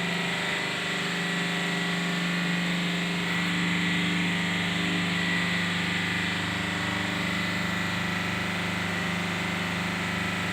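An engine running steadily: a constant low drone with a thin high whine over it.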